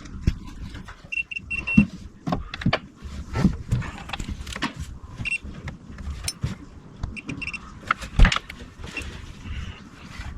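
Irregular clicks, clinks and knocks of hand tools and metal parts being handled during engine work, with a few brief high squeaks.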